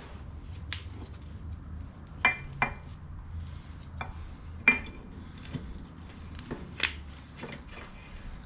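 Steel parts and tools being handled: scattered metal clinks and knocks, a few of them sharp and ringing, the loudest about two and a quarter, two and a half and four and a half seconds in.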